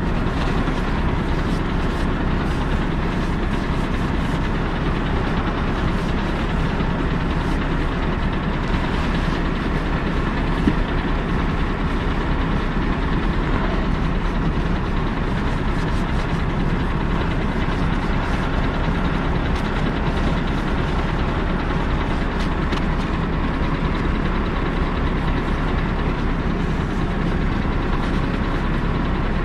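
Scania R580's V8 diesel engine idling steadily.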